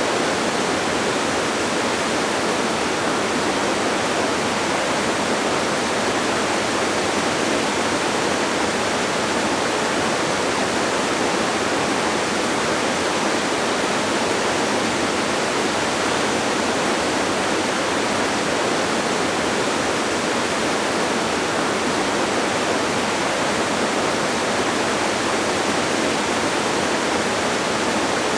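Waterfall rushing: a steady, even hiss of falling water with no changes or separate events.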